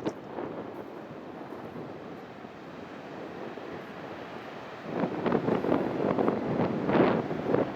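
Sea waves washing in, with wind buffeting the microphone; the noise grows louder and gustier about five seconds in.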